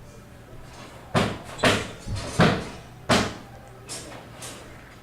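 A series of sharp knocks or bangs: four loud ones about half a second to a second apart, then two fainter ones.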